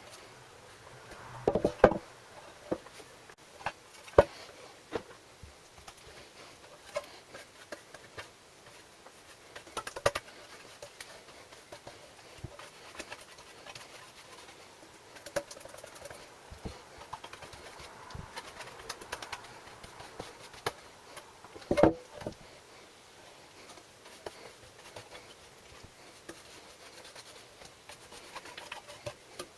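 Scattered light clicks and knocks of small metal parts and hand tools being handled, with a few louder knocks about two seconds in and again about 22 seconds in.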